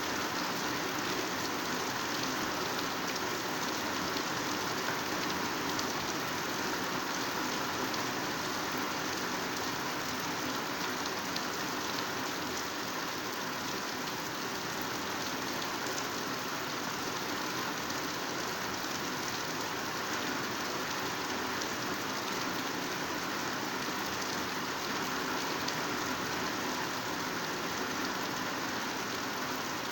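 Heavy rain falling steadily on vegetation, an even unbroken hiss of many drops.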